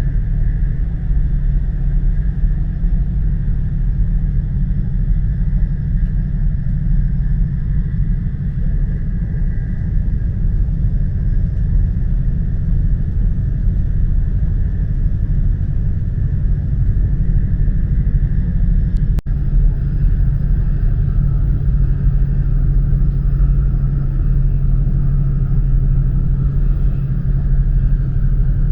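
Steady rumble of an E4 series Max double-decker Shinkansen running, heard from inside the lower-deck passenger cabin. About two-thirds through the sound breaks off for an instant, and after that a low hum is stronger.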